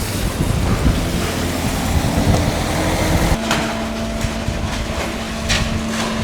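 Steady engine or machinery noise with a low hum, mixed with wind on the microphone; the sound changes abruptly about three seconds in to a single steadier hum.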